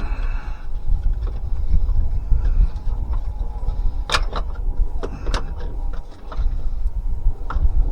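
A few sharp clicks and knocks of metal parts being worked into place while fitting a transfer case shift motor onto a 2004 Chevy Silverado's transfer case, over a steady low rumble.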